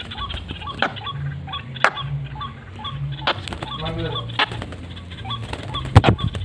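Birds calling: short high notes repeat two or three times a second over low, pulsing hoots, with a pitched call about four seconds in. A sharp knock about six seconds in.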